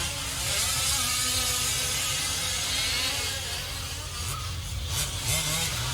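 Several 5th-scale RC trucks' small two-stroke gas engines buzzing at a distance, their pitch rising and falling as the trucks race around the track.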